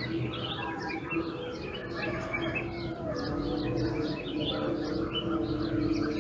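Many small birds chirping and twittering in a dense morning chorus, quick short calls overlapping one another, over a steady low hum of held tones.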